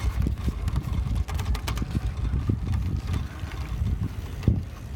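Wind buffeting the microphone on a moving bike, a heavy low rumble, with scattered light knocks and rattles and one sharper knock near the end.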